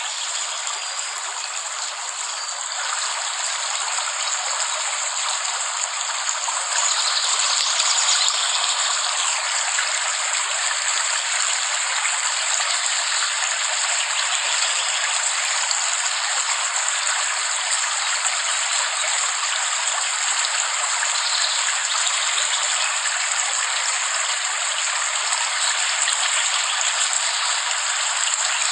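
Steady heavy rain: an even, fairly loud hiss with no low rumble, swelling slightly for a couple of seconds about seven seconds in.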